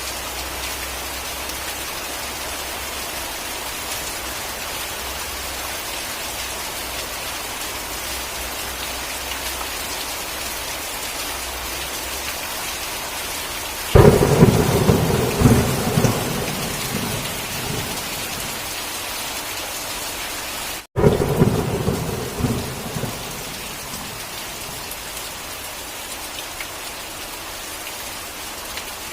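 Steady heavy rain with two thunderclaps: a sudden loud crack about halfway through that rumbles off over several seconds, then a second crash about seven seconds later, straight after the sound cuts out for an instant.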